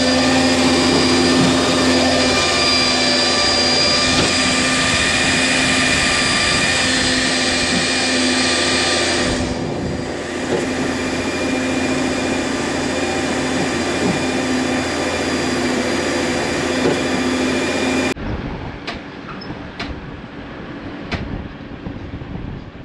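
Fertilizer loading conveyor running steadily, filling an air seeder cart tank with granular fertilizer. The high hiss of the pouring granules drops away about ten seconds in. The machinery cuts off abruptly about eighteen seconds in, followed by a few sharp clicks.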